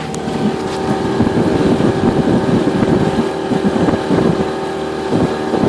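Tohatsu 25 hp outboard motor running with a steady engine tone. Wind buffets the microphone, louder from about a second in.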